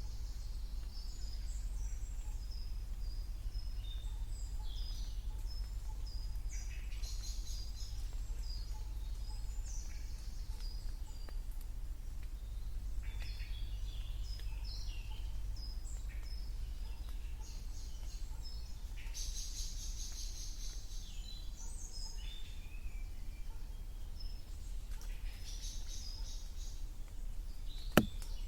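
Several songbirds singing and calling in spring woodland, short chirps and trills overlapping throughout, over a steady low rumble. A single sharp tap sounds near the end.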